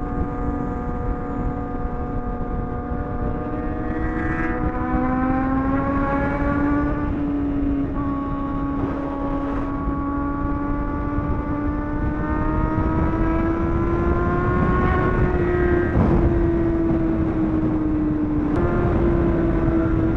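Sport bike engine running at high revs at highway speed, its pitch creeping up and down, dropping abruptly about five and eight seconds in and stepping up near the end as gears change. Heavy wind rush on the microphone.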